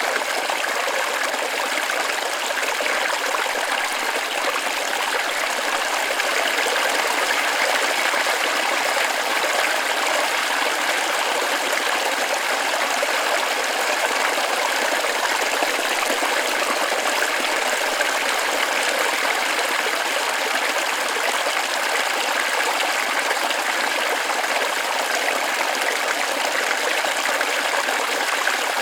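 Water running steadily over rocks in a small forest waterfall or creek, an even rushing splash with no breaks.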